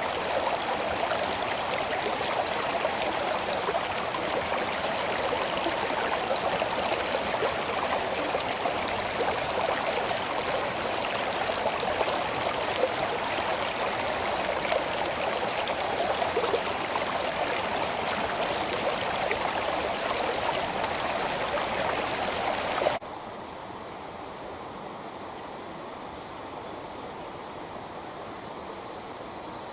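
Creek water rushing and burbling steadily. About three-quarters of the way through, the sound drops abruptly to a quieter, softer rush of water.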